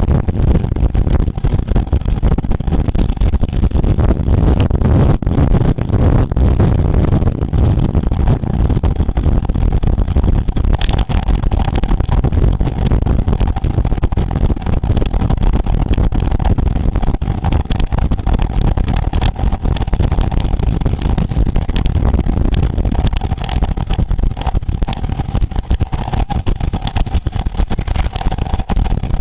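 Wind rushing over the microphone of a camera riding along on a road bike at race speed, a loud, continuous low rumble with a faint steady hum underneath.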